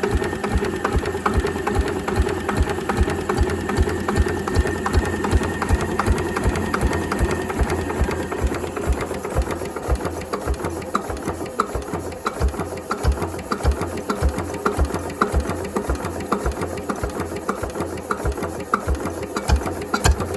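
Slavia 8 hp single-cylinder stationary diesel engine running slowly, with a steady, even beat of about three firing strokes a second.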